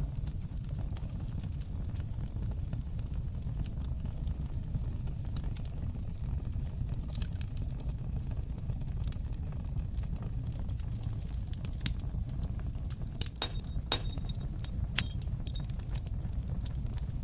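Fire in a fireplace burning with a steady low rumble and scattered crackles. A run of sharper, louder pops comes near the end.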